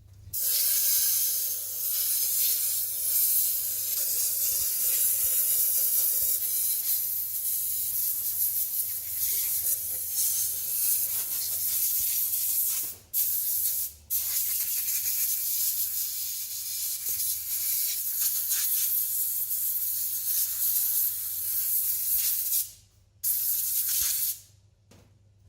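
A pressurised spray hissing in long, high-pitched blasts, breaking off for a moment twice about halfway through and again near the end.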